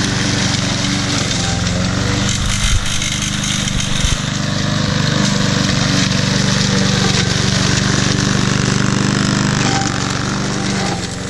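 Husqvarna walk-behind push mower's single-cylinder engine running steadily while mowing through brush, with two sharp knocks about three and four seconds in. The level eases off slightly near the end.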